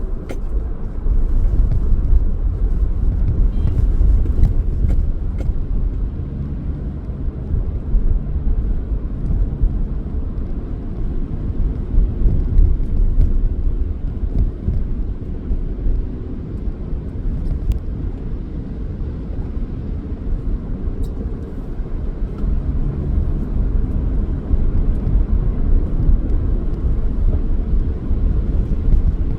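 A car driving along: a steady low rumble of engine and road noise that rises and falls gently in level.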